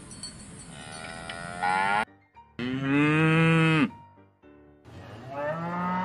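Cattle mooing in three separate calls. The first cuts off suddenly about two seconds in, then comes a long, loud moo, and then a shorter, quieter one near the end. The later calls are from Holstein-Friesian cows.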